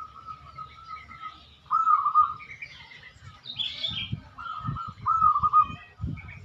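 Zebra dove (perkutut) cooing, its warbling phrase coming three times. Low thumps of wind on the microphone come under it, most in the second half, with higher chirps of smaller birds.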